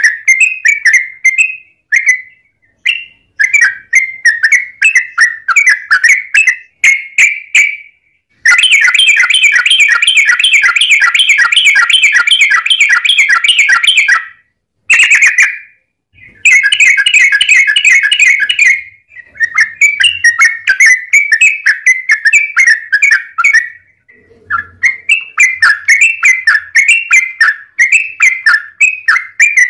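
Yellow-vented bulbul (trucukan) singing loud, rapid chattering phrases separated by short pauses, with one long unbroken trill in the middle.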